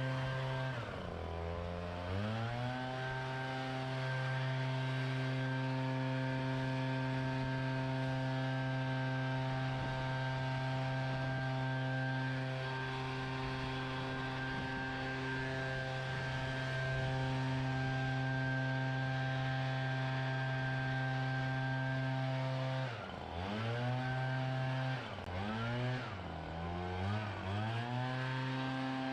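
Small gas engine of a leaf blower running at high throttle. The pitch drops and climbs back about a second in, holds steady for most of the stretch, then near the end is throttled down and up several times in quick succession.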